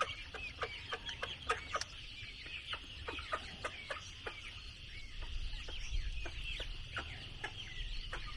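Chickens clucking: many short calls, each dropping quickly in pitch, several a second, over a steady high hum.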